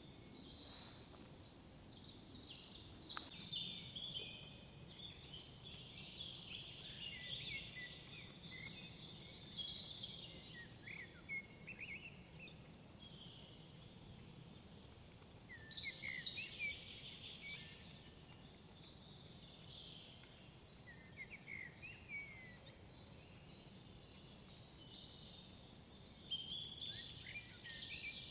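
Songbirds singing in a forest: bursts of quick chirping phrases and high trills every five or six seconds, some louder and closer than others, over a quiet woodland background.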